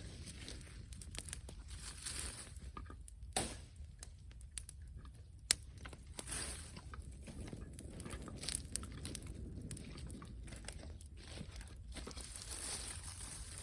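Wood bonfire crackling, with irregular snaps and pops over a low steady background and one sharp, loud pop about five and a half seconds in.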